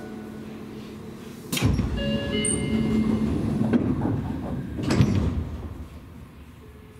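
Seibu Railway train sounds: steady running tones, then a sudden loud rush about a second and a half in that lasts a few seconds, with a sharp clack about five seconds in before it fades.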